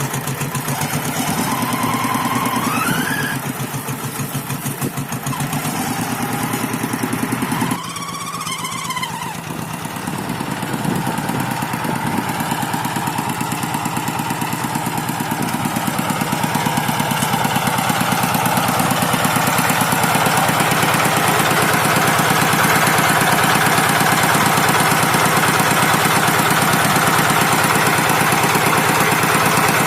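Rice-field tractor engine running steadily while the tractor ploughs, growing louder about halfway through.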